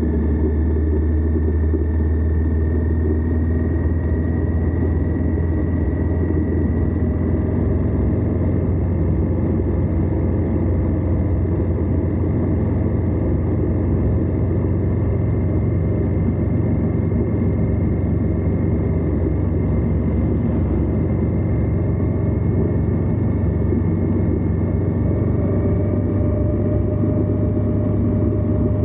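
Indian Scout's V-twin engine running steadily at cruising speed, heard close up from the lower crash bar together with wind and road noise. Its pitch creeps slightly higher near the end.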